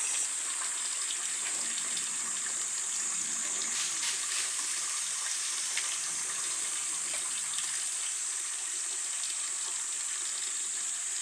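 Water from a mountain stream running steadily, a constant rushing hiss. A steady high-pitched drone sits above it throughout.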